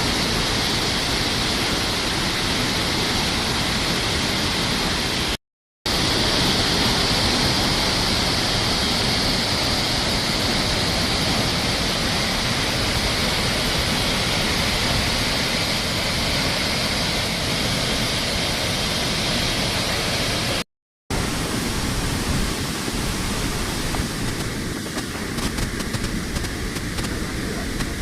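Tad Yuang waterfall pouring, a loud, steady rushing of falling water. It breaks off for a split second twice, at about five and a half seconds in and about twenty-one seconds in, and after the second break the rush sounds a little thinner.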